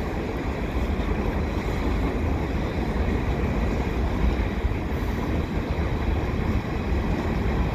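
A mixed freight train's boxcars, covered hopper and tank cars rolling past: a steady, even noise of steel wheels on the rails, heaviest in the low end.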